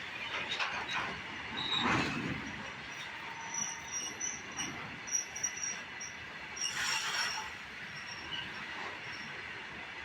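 Train moving along the track, its wheels squealing against the rails in short, high squeals that come and go, over a steady rumble of the cars.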